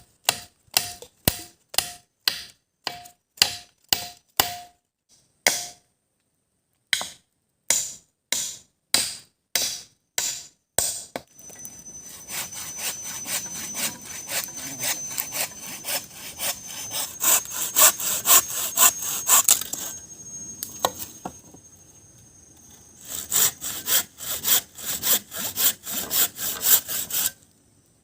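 Wood being worked by hand: separate chopping strikes about two a second, then from about eleven seconds in a saw cutting through wood in quick, steady strokes, easing off briefly near the middle of the sawing.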